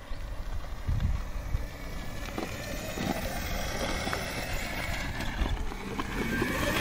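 36-volt electric kids' quad bike driving over dirt, with wind buffeting the microphone.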